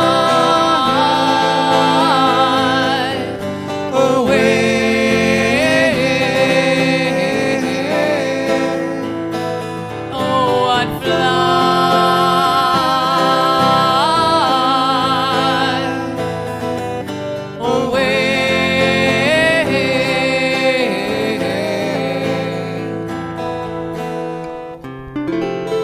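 Acoustic folk song: long sung phrases with vibrato, without clear words, over acoustic guitar chords, in four phrases of a few seconds each.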